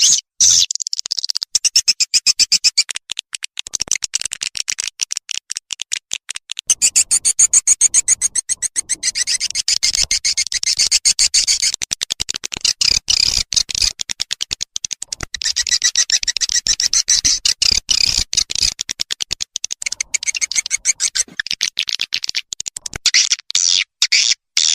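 Swiftlet lure recording: edible-nest swiftlets twittering in rapid, dense high chirps and clicks, with brief breaks. Played to draw swiftlets into a nesting house.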